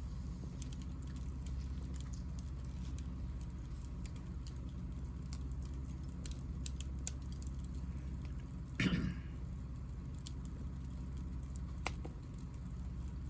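Hinoki offcuts burning in a small fire, giving scattered light crackles and ticks over a steady low rumble. About nine seconds in there is one louder pop with a brief hiss, and another sharp crack near the end.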